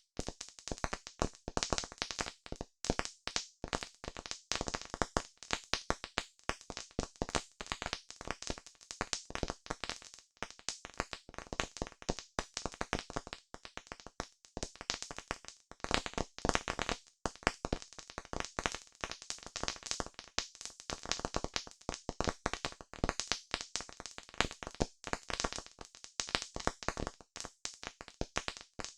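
Campfire crackling: a dense, irregular run of sharp pops and snaps, several each second.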